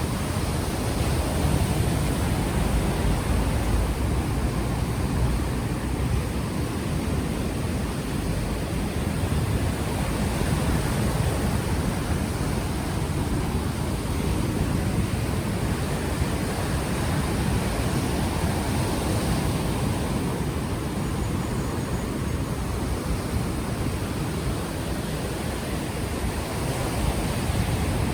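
Ocean surf washing onto the shore in a steady rush, with gusty wind buffeting the unshielded microphone and adding a low rumble.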